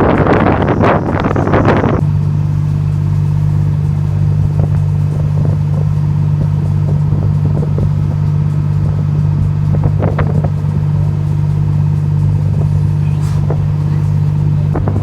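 Wind buffeting the microphone for about two seconds, then a steady low engine drone from the fishing boat's motor, even and unchanging, with a few faint knocks.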